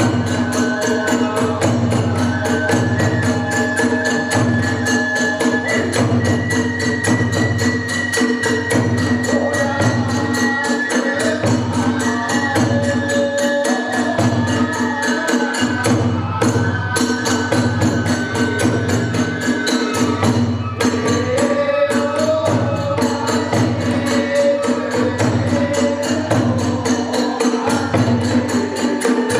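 Hiroshima kagura ensemble playing: a high bamboo flute holds long melody notes over fast, steady clashing of small hand cymbals (tebyōshi) and a low drum beat repeating about once a second.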